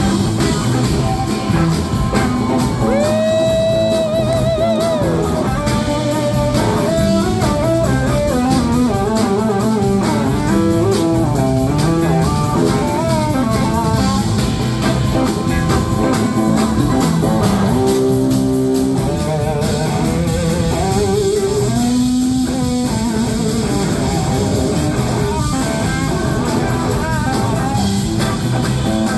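Live blues band playing, led by electric guitar: lead lines that slide up into long held notes with vibrato, over bass and the rest of the band.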